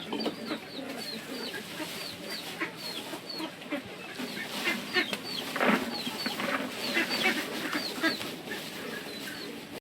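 Chickens clucking, with many short, high, falling peeps repeated several times a second over low clucks.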